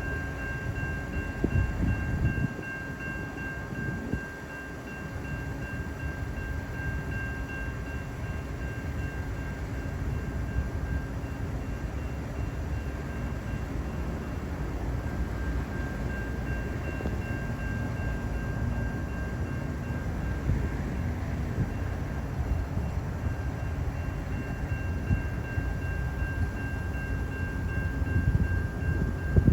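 Metra commuter train running at the station: a steady low rumble with a thin, steady high-pitched tone over it that drops out briefly twice.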